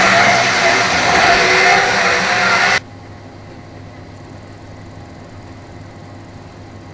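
Model train running on the layout's track: a loud, even noise of its small electric motor and wheels that cuts off suddenly about three seconds in, leaving a faint steady hum.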